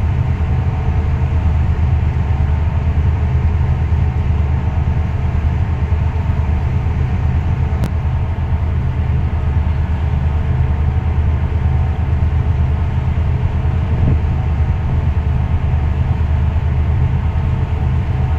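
Steady low rumble of a ship's engine running at a constant speed, with a faint steady hum over it.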